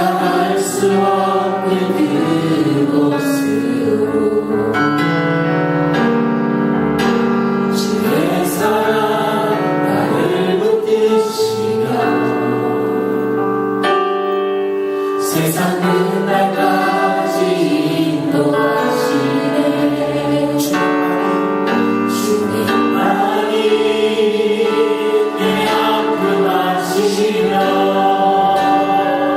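Church congregation singing a worship song together with musical accompaniment.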